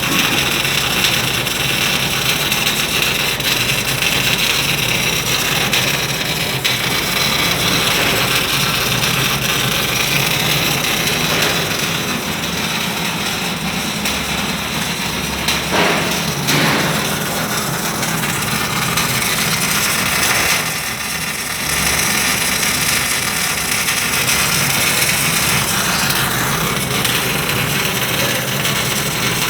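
Argon-shielded welding machine in use, its arc crackling and hissing steadily over a low machine hum, with a couple of brief breaks in the arc.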